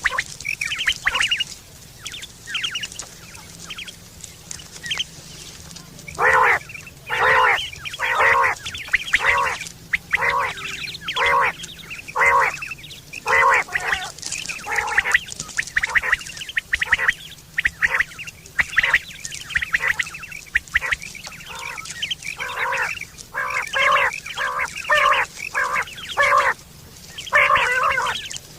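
Rain quail calling: short, clipped call notes, a few scattered at first, then after a pause repeated in quick clusters of two to four. This is the quail call used to lure quail for hunting and mating.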